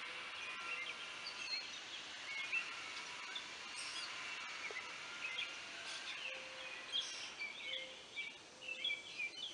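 Wild birds chirping in short, quick calls, more of them in the last few seconds, over a steady faint outdoor background.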